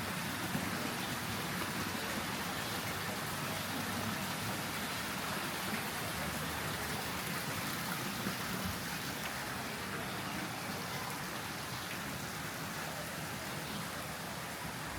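Steady patter and splash of falling water.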